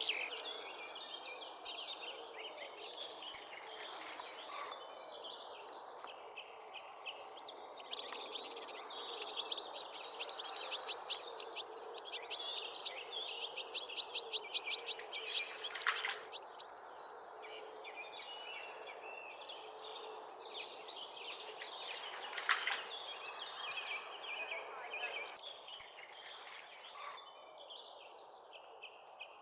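Wild birds singing: a loud, short phrase of four or five high notes twice, about 3.5 seconds in and again near the end, over quieter chirps and trills from other birds and a steady background rush.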